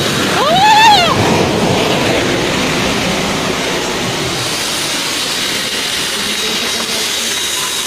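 Steady rushing of heavy rain and runoff water. About a second in, a short cry rises and then falls in pitch.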